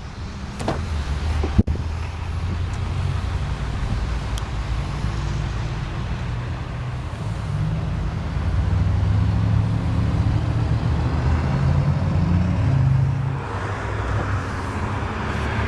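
Steady rumble of highway traffic, swelling as heavier vehicles pass about halfway through. A single sharp click comes about a second and a half in.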